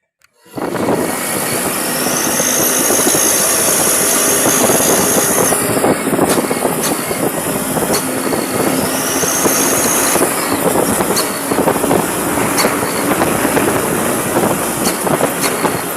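Toyota Dyna truck running with a homemade 'ngir' cricket-whistle exhaust fitted, cutting in suddenly about half a second in. A high-pitched whistle sounds twice over the exhaust noise, first for a few seconds and then briefly near the middle.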